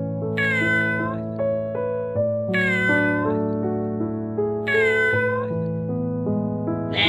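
Domestic cat meowing three times, each meow short with a slight downward turn at its end, about two seconds apart.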